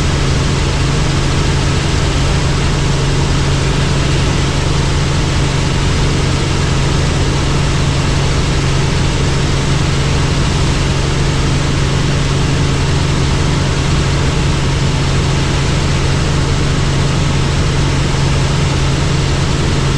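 Helicopter in flight: steady engine and rotor noise, a loud even drone with a strong low hum that does not change.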